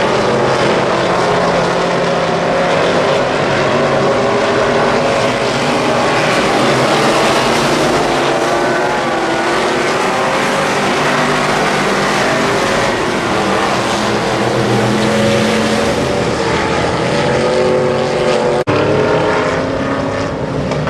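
Wissota Midwest Modified dirt-track race car V8 engines running at racing speed, the pitch rising and falling as they go around the oval. There is a brief dropout in the sound near the end.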